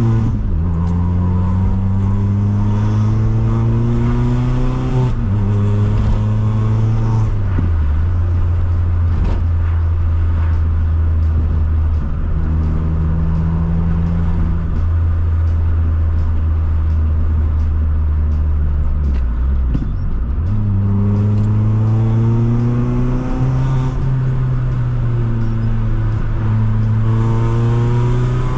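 Citroën C2 VTS's 1.6-litre four-cylinder petrol engine pulling up through the gears, its pitch rising and dropping at each upshift. It settles to a steady cruise for about ten seconds, then accelerates again with another shift near the end.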